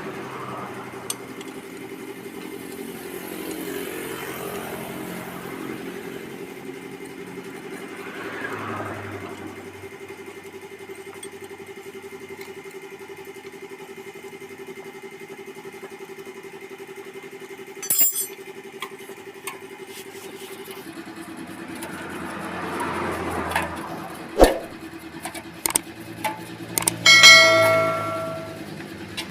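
Small motorcycle engine running steadily, with a few sharp metallic clinks and a short ringing tone near the end.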